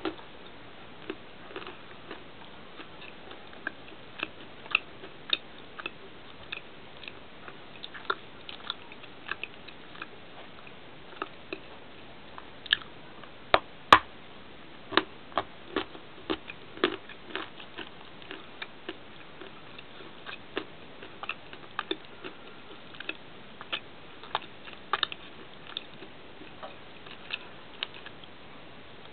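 A crunchy candy bar being bitten and chewed: irregular sharp crunches, with the loudest bite about halfway through.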